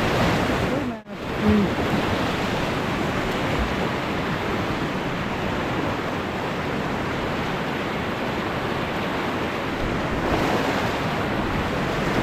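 Rushing river water, a steady wash of noise that drops out sharply for a moment about a second in.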